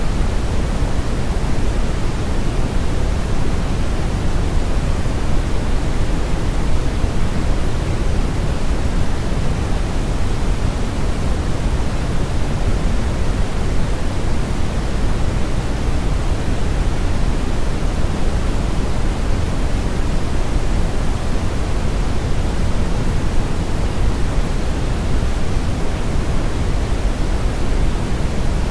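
Steady brown noise: a constant rushing hiss weighted heavily toward the low end, with little treble, like a deep roar of wind or a river current.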